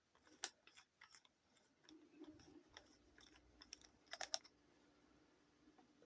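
Faint scattered clicks and taps, with a quick cluster of louder clicks about four seconds in, over a faint steady hum that starts about two seconds in.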